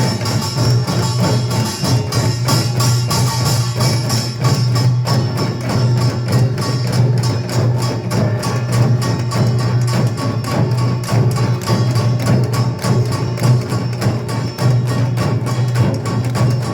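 Samul nanta Korean percussion ensemble beating drums in a fast, continuous rhythm.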